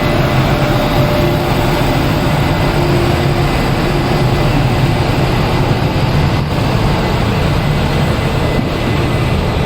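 Moving passenger train, heard from aboard: a steady rumble of the wheels on the rails and the running coach.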